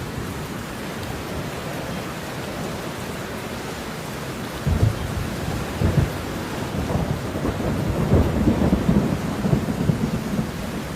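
Steady rain falling, with thunder rumbling in from about five seconds in: a couple of low booms, then a longer rolling rumble that dies away near the end.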